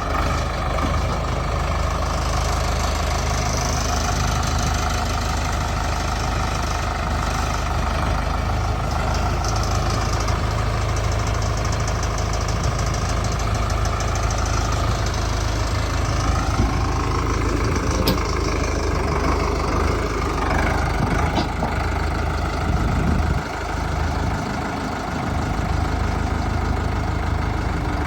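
Solis 5515 tractor's diesel engine running steadily, its pitch shifting up and down for a few seconds past the middle and briefly easing off near the end.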